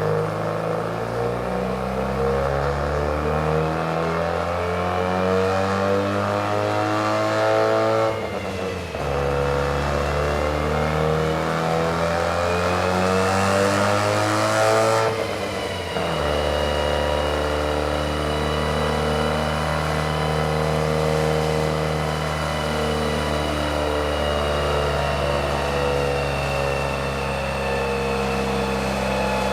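Turbocharged car engine under load on a chassis dyno, its pitch climbing steadily through a long pull, breaking off and climbing again, then holding at a steady speed for the rest of the time.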